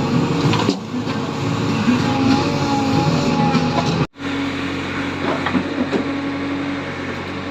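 Diesel engine of a JCB 3DX backhoe loader running while working, with an abrupt cut about four seconds in.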